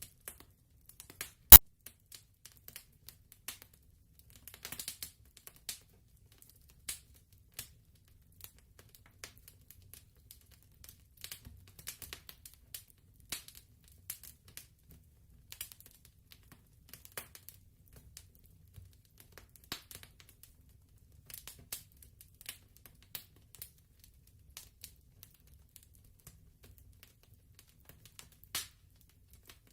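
Fireplace crackling: irregular small pops and ticks, with one sharp, much louder pop about one and a half seconds in.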